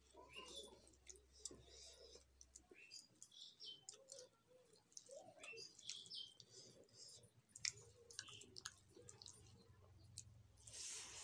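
Faint chewing and mouth sounds of a person eating rice and curry by hand, with scattered soft clicks of fingers working the food on a metal plate.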